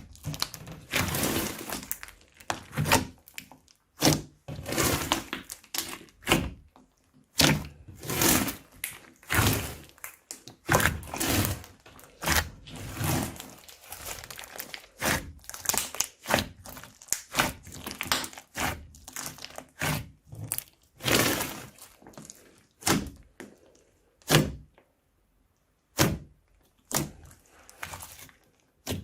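Crunchy slime being worked by hand: irregular runs of crackling with sharp pops and clicks, thinning out to single pops near the end.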